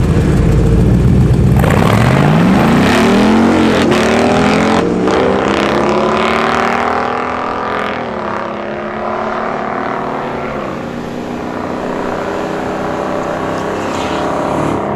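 A Mazda sedan with a swapped-in 5.3-litre L83 V8 rumbling at the drag-strip starting line, then launching about two seconds in. The engine revs climb steeply, with a couple of gear changes, and the exhaust note fades as the car runs away down the track.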